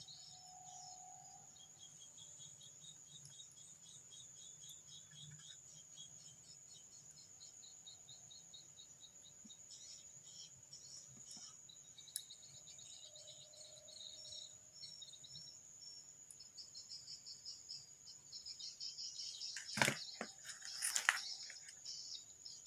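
Crickets chirping in rapid repeated trills over a steady high-pitched ring. Near the end, a few sharp knocks and a brief rustle.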